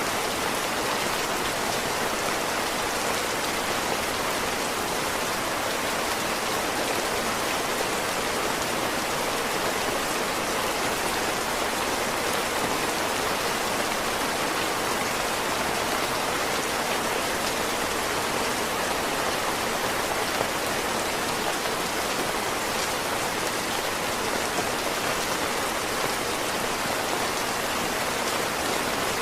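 Heavy rain falling steadily, a dense even hiss of drops on surfaces with no letup.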